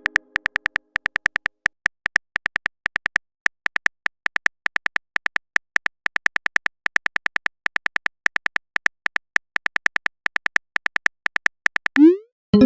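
Keyboard typing sound effect: a long run of quick, sharp clicks, several a second, with a short rising swoop near the end.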